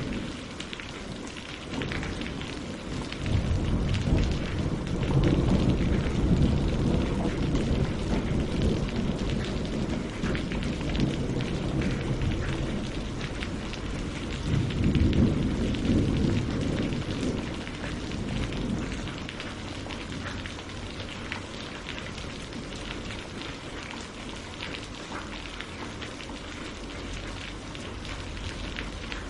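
Steady rain falling on tree leaves and on the surface of a lake, a dense patter of drops. A deep low rumble swells up twice, about three seconds in and again about fifteen seconds in, then fades.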